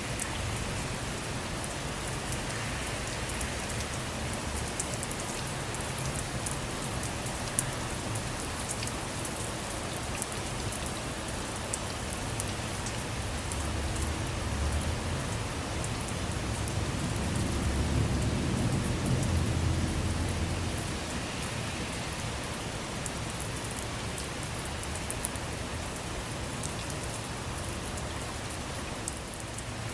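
Steady rain falling on a car, with a low rumble of distant thunder that swells and fades about two-thirds of the way through.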